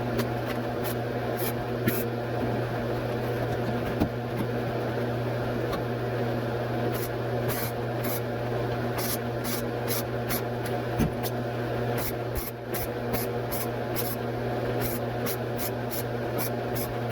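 Short scraping strokes, more frequent from about seven seconds in, of body filler being spread over a steel truck-bed panel, over a steady mechanical hum.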